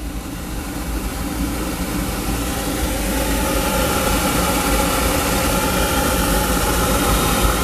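Oil burner running on the furnace: a steady motor-and-flame rush that builds over the first few seconds, then holds, with a faint steady whine coming in about halfway.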